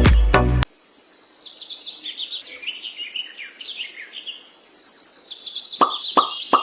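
Music cuts off under a second in, leaving small birds chirping in quick, falling trills. Near the end come three water-drop plops, each a short falling tone.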